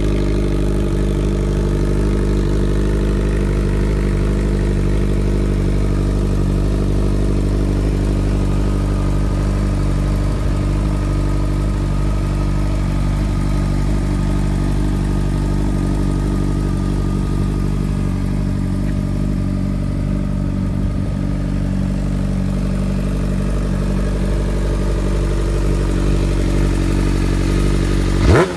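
Honda CBR600F inline-four engine idling steadily, with a throttle blip just starting at the very end.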